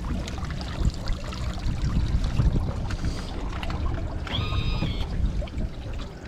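Water trickling and splashing around a boat over a steady low rumble, with a short high-pitched tone lasting under a second about four and a half seconds in.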